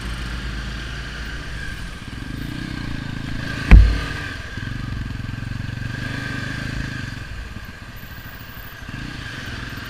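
Motorcycle engine running while riding along, with wind and road noise, its low drone easing up and down a few times. A single sharp thump a little under four seconds in is the loudest sound.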